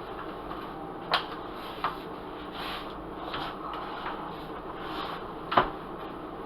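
Cookware being handled: three sharp knocks or clinks, the loudest near the end, over a steady low hiss.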